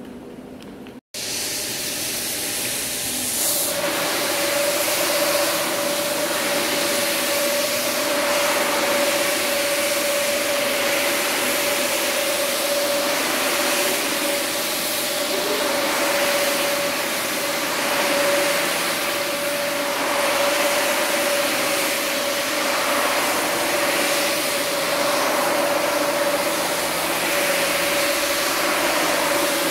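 Pressure washer spraying a rug: a steady hiss of water over a constant motor hum, swelling and easing every couple of seconds, starting after a brief break about a second in.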